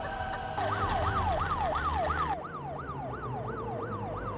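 Police car siren in a fast yelp, its pitch sweeping up and down about three times a second, starting about half a second in.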